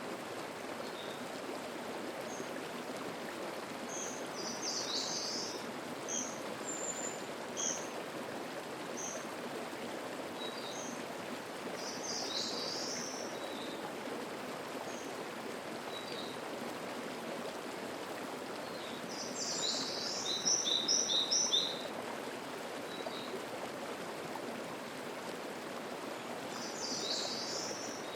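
Mountain stream babbling steadily, with a small songbird singing short high phrases every several seconds; about twenty seconds in, one phrase ends in a quick run of about five repeated notes.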